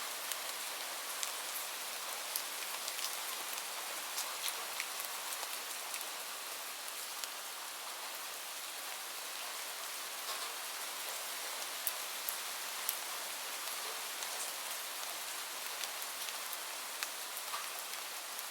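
Steady rainfall hiss with many scattered sharp drop ticks on a surface.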